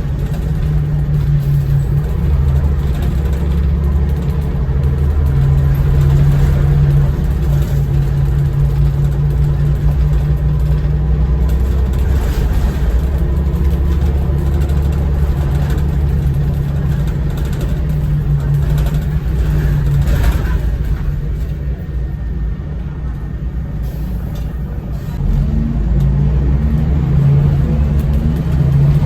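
Scania L94UB bus engine running steadily while under way. It eases off for a few seconds about three quarters of the way through, then picks up again with rising pitch as the bus accelerates.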